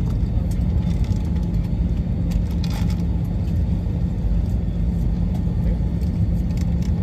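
Steady low rumble inside an Airbus A321 airliner's cabin before takeoff, with a constant hum under it and a few faint clicks.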